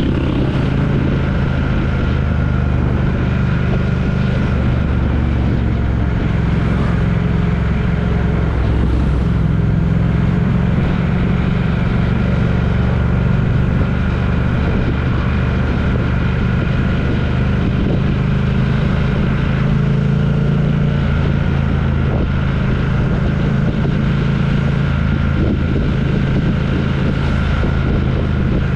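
Steady engine and road noise of a road vehicle on the move, with a constant low hum and no change in speed.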